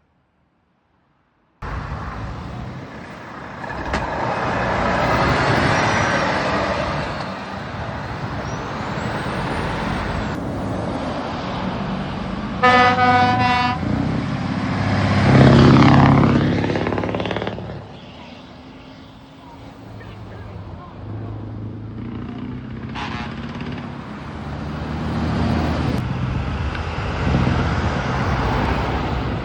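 Heavy trucks driving past with their engines running, one sounding a multi-note air horn briefly about halfway through. Straight after the horn, a truck's engine revs up loudly as it passes, then the engine noise drops back.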